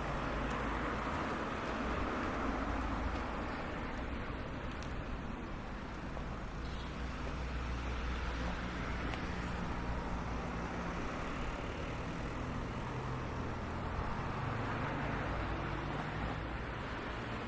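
Steady road traffic: motor vehicles running with a continuous low engine rumble and hum.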